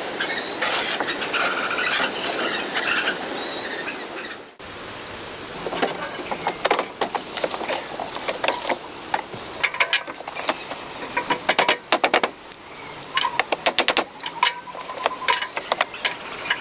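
High-pitched squeaking for about four seconds, then, after a sudden break, a run of irregular sharp clicks and knocks.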